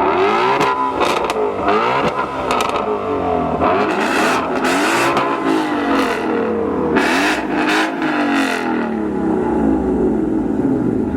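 Ford Mustang V8 being revved repeatedly in quick blips, its pitch climbing and falling again and again, with brief sharp bursts of exhaust noise in between.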